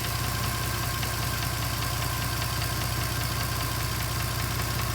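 2010 Mercedes-Benz C300 4matic's 3.0-litre V6 running steadily at idle, with a fast, even ticking and a knocking that the owner hears as coming from the lower passenger side of the engine; the cause is undiagnosed.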